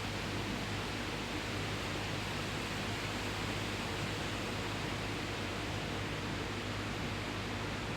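Steady hissing background noise with a faint low hum and no distinct taps, drumming or calls.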